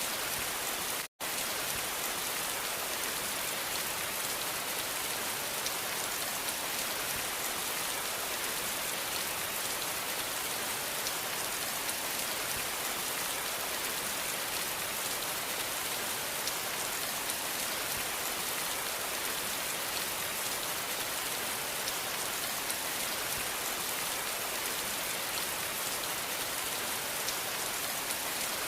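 Steady rain falling on a surface: an even hiss with fine drop patter. It cuts out to silence for an instant about a second in, then carries on unchanged.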